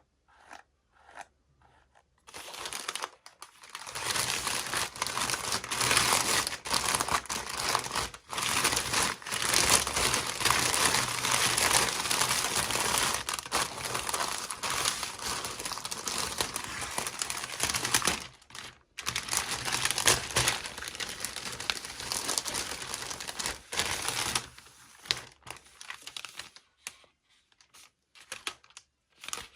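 Toy packaging being unwrapped by hand, crinkling continuously for about twenty seconds, then a few scattered small clicks and rustles near the end.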